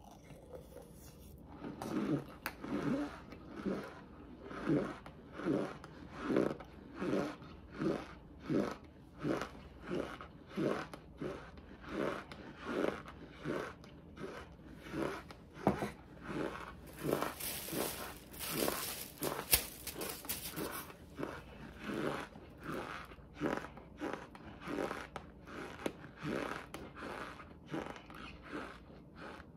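A mouthful of raw cornstarch being chewed close to the microphone, with a steady rhythm of about three chews every two seconds. About two-thirds of the way through there is a brief scraping rustle and a sharp click.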